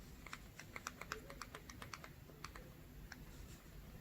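Samsung Galaxy S20 Ultra being shaken, giving a quick, irregular series of faint clicks from its camera module. This is the periscope telephoto lens rattling loosely, which the owner puts down to the lens moving when optical image stabilization is not holding it.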